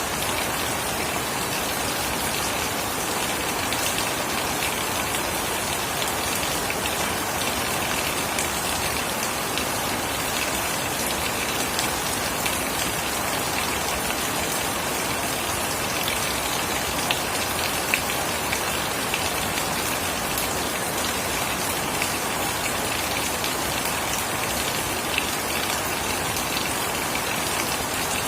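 Steady rain falling on surfaces, with a dense patter of individual drops and a few louder drips here and there.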